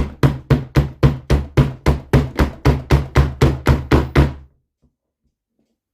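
A hammer's non-metal face tapping the NSU Quickly two-speed engine's crankcase in a quick, even run of about four blows a second, stopping about four and a half seconds in. The case halves are stuck together and are being knocked loose to split them.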